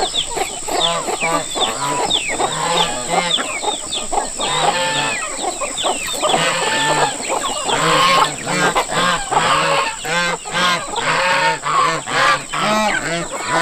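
Flock of farm poultry calling while being fed, many birds clucking and honking at once in a continuous overlapping chorus.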